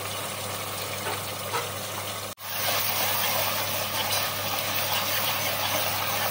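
Ginger, garlic and green chilli paste sizzling steadily in hot oil with cumin seeds and whole spices in a pot. It breaks off for an instant about two seconds in, then comes back a little louder as a spoon stirs it.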